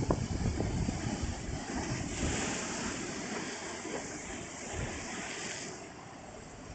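Typhoon-driven surf washing onto the beach, with wind buffeting the microphone at the start. A wave's hissing wash swells about two seconds in and drops away near six seconds.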